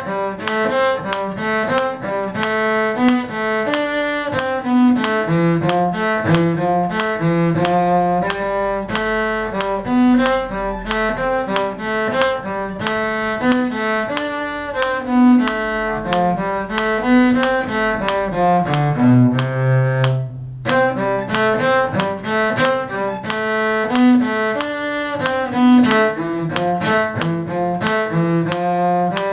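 Bowed string instruments playing a tune: a cello-range low line under a higher melody, moving note by note, with a brief break about 20 seconds in.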